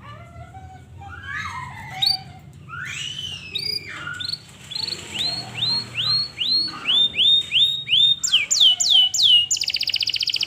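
Canary singing loudly: a few varied notes, then a phrase of one sweeping note repeated over and over, speeding up and climbing higher, breaking into a rapid high trill near the end.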